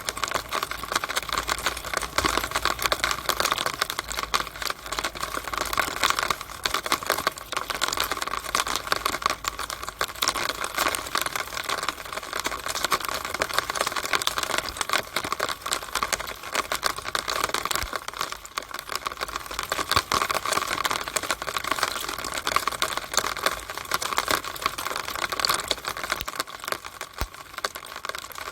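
Rainwater pattering inside a downspout during rain: a dense, steady stream of rapid, irregular taps and drips.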